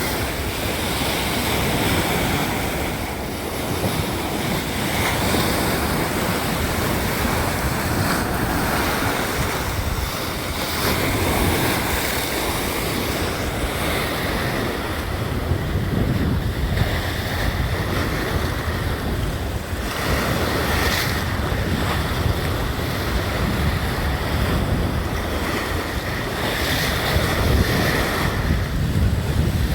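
Sea waves breaking and washing on the shore, with strong wind buffeting the microphone. The surf rises and falls every few seconds.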